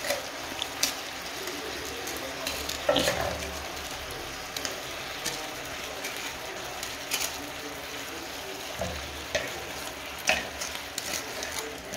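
Frozen mixed vegetables and chicken sizzling steadily in a hot nonstick frying pan, stirred with a wooden spatula that scrapes and knocks against the pan every few seconds.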